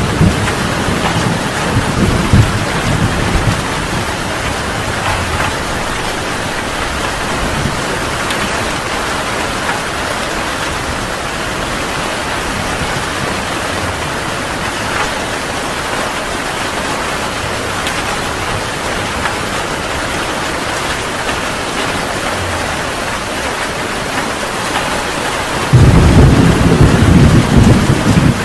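Heavy rain falling steadily, with thunder rumbling low in the first few seconds. A loud thunderclap breaks in suddenly near the end.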